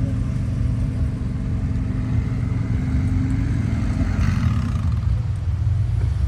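A car engine idling with a steady low rumble; its hum fades about three and a half seconds in, and a brief hiss follows about four seconds in.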